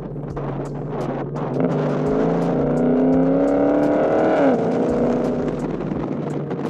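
Car engine accelerating, its pitch rising for about three seconds before dropping sharply about four and a half seconds in, as at a gear change or lift off the throttle.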